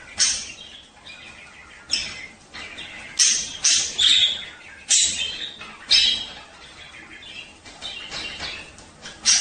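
Budgerigars chirping and warbling in repeated high bursts with quieter chatter between them: the chatter budgies make at breeding time.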